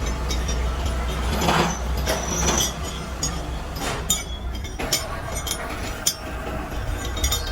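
Workshop machinery running with a steady low hum, with scattered metallic clinks and knocks of metal parts being handled.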